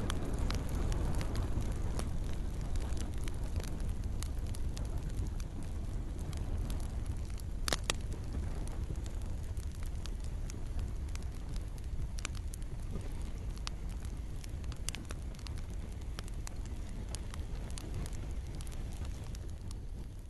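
Campfire crackling, with scattered sharp pops (the loudest about eight seconds in) over a steady low rumble and the soft hiss of gentle rain.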